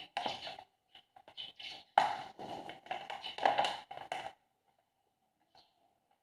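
A series of irregular taps and knocks, like objects being handled, over about the first four seconds, then it goes quiet apart from one short tick.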